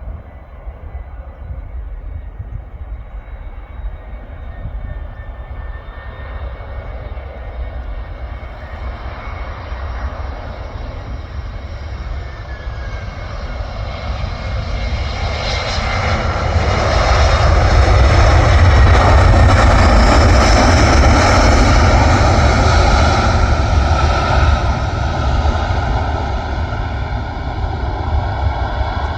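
Airplane engines passing close by. The rumble and whine build up, are loudest a little past the middle, and then fade back down.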